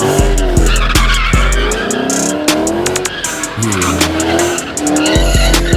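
A car engine held at high revs with tires squealing, under a hip-hop beat with heavy sub-bass and steady hi-hats.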